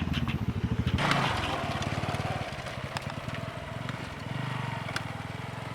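Motorcycle engine running at low revs, with a rush of noise starting about a second in and scattered clicks.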